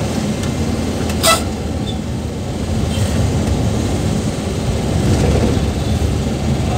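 Cabin noise of a Suzuki Carry on the move: a steady low engine and road rumble, with one short, sharp knock about a second in.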